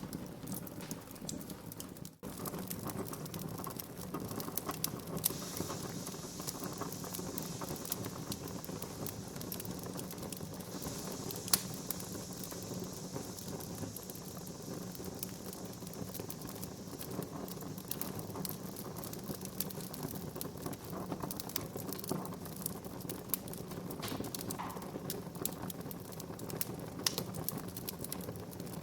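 Wood fire crackling in a fireplace: a steady rush of many small pops and snaps, with one louder pop about halfway through. The sound drops out for an instant about two seconds in.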